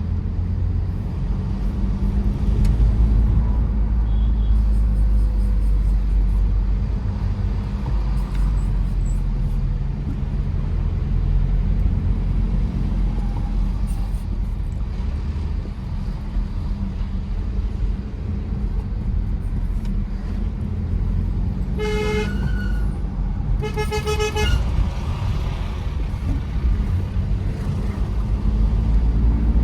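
Steady low rumble of a Tata Safari Storme SUV driving, its diesel engine and tyres droning. About three-quarters of the way through, a car horn honks twice, the second a little longer.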